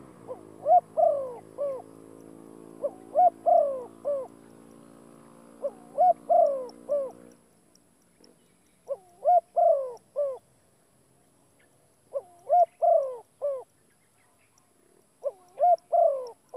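A bird calling the same short phrase of four or five hooting notes over and over, about every three seconds, six times. A sustained droning chord of music plays under the first few calls and stops about seven seconds in.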